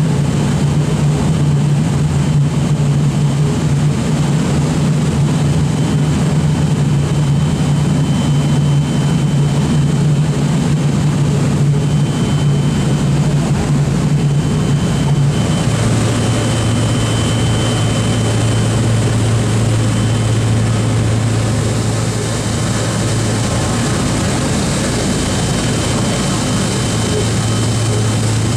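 Boeing B-29 Superfortress's four Wright R-3350 radial piston engines running steadily with a loud, deep propeller drone. The drone steps down to a lower pitch about halfway through, as the engines are throttled back.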